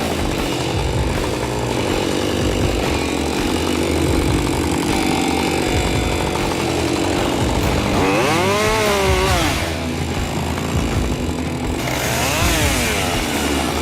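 Chainsaw engine running steadily, revved up and back down about eight seconds in and again near the end.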